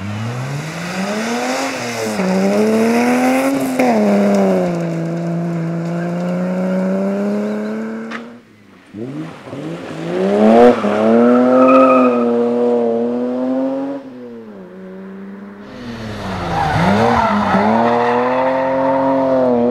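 BMW E30 325i rally cars' straight-six engines revving hard through a corner, the pitch climbing and dropping with each gear change and throttle lift. Three separate passes follow one another, with breaks about 8 and 16 seconds in.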